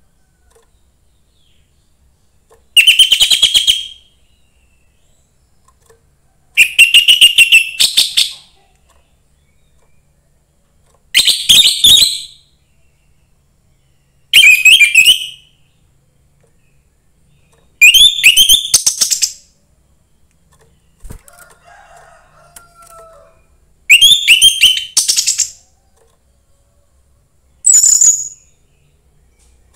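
Young wild orange-headed thrush singing: seven short, fast rattling phrases of high notes, one every three to four seconds.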